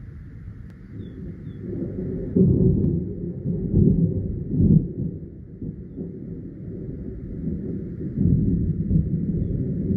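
Thunder rolling and rumbling, with loud peals about two and a half, four and five seconds in, and another long swell near the end.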